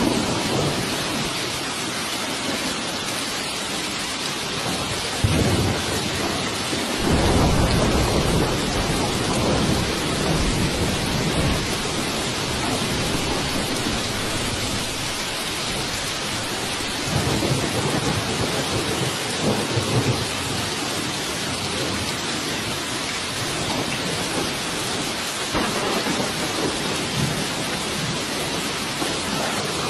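Steady heavy rain hissing, with thunder rumbling in low, rolling swells several times, the first setting in suddenly about five seconds in.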